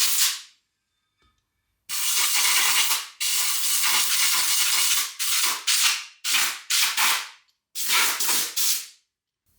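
Compressed-air blow gun blasting, used to blow out a front wheel hub: two long blasts of hiss, then four shorter ones about a second apart, each starting and stopping sharply.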